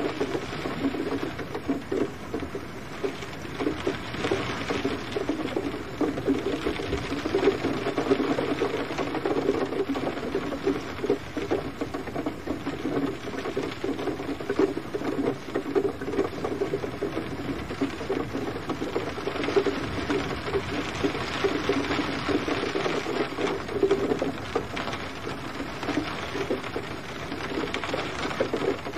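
Gentle rain falling steadily: a dense, even patter of drops that swells slightly now and then.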